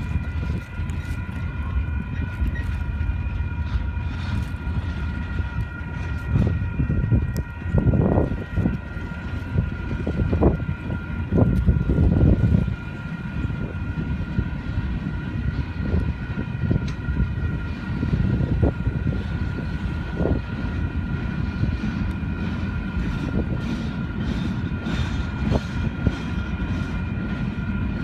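Train rolling past, its cars rumbling steadily, with a run of louder clacks and bangs from the wheels and couplers between about six and thirteen seconds in. A steady high ringing tone of several pitches sounds throughout.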